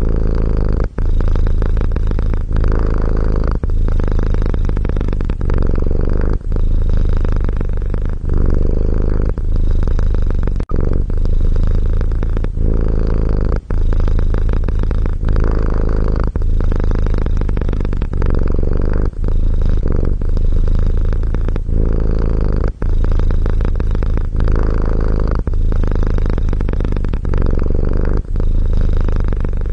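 Domestic cat purring steadily and close up, a continuous low rumble with a brief break every two to three seconds as the cat switches between breathing in and out.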